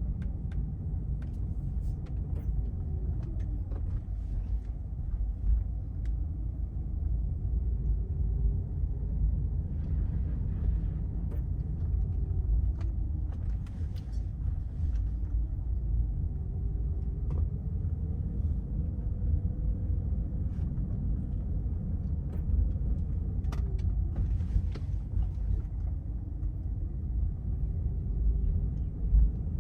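A car driving on the road: a steady low rumble of tyres and engine, with a faint tone that slowly rises and falls as the speed changes, and occasional light clicks.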